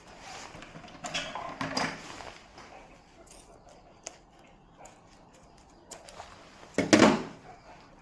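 Clattering handling noise of objects being moved and set down, with one loud knock about seven seconds in.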